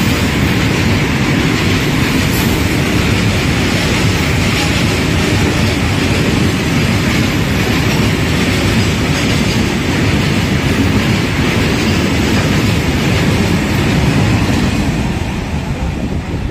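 Freight train of open-top box wagons rolling past at speed: a loud, steady rolling rumble of wheels on the rails. The noise begins to fade near the end as the brake van at the rear goes by.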